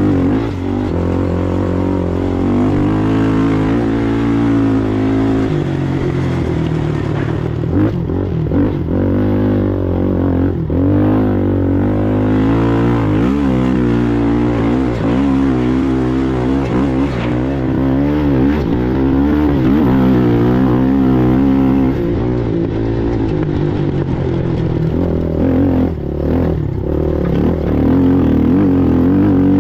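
Racing ATV engine running hard for the whole stretch, its pitch rising and falling over and over as the throttle is worked, with a few brief dips.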